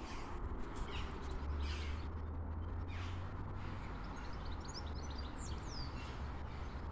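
Outdoor birds calling: a few harsh calls, then a quick run of high chirps about two-thirds of the way through, over a low steady rumble.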